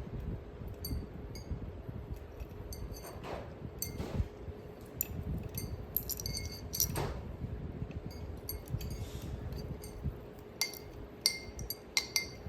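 Hampton Bay Clarkston ceiling fan running with a steady hum, with irregular light clinks of metal and glass scattered through, several coming close together near the end.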